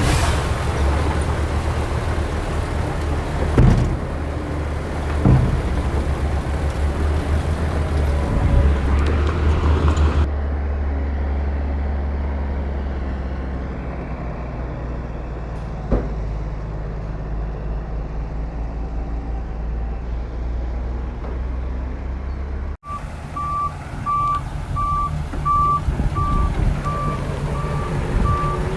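Heavy diesel construction machinery running, a low steady engine rumble with a few sharp metallic clanks. After an abrupt cut, a reversing alarm beeps steadily over the engine for the last few seconds.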